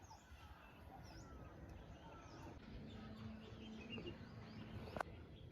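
Faint birdsong: several birds calling with short high chirps and down-slurred whistles, and a single sharp click about five seconds in.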